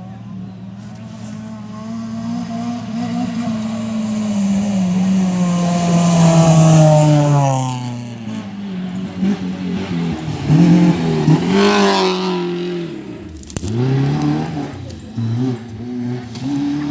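Off-road race car engines revving hard. One car gets louder to a peak about six seconds in and drops in pitch as it passes. After that the engine pitch rises and falls several times as the cars rev and back off.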